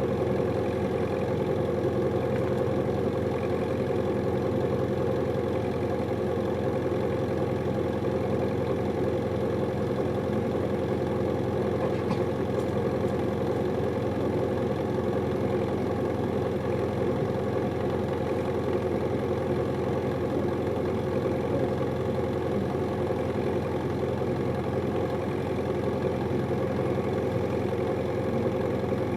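Diesel engine of a Hino Liesse II city bus, heard from inside the cabin, running steadily at an unchanging idle.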